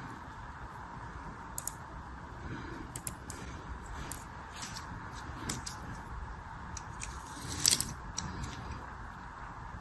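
Packaging being handled and opened: irregular short crinkles and clicks, with the loudest cluster about three quarters of the way in, over a steady faint hum.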